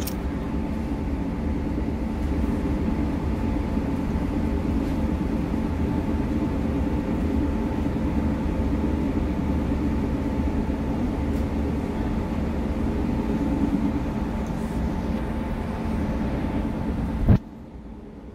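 Steady rumble and hum of a moving passenger train heard from inside the carriage. Near the end a single sharp thump, after which the sound turns much quieter and duller.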